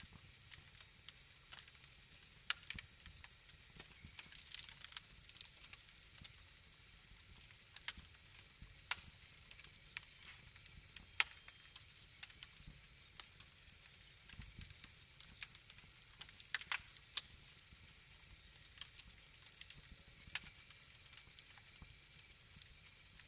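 Wood fire crackling: irregular sharp pops and snaps, a few of them louder, over a faint steady hiss.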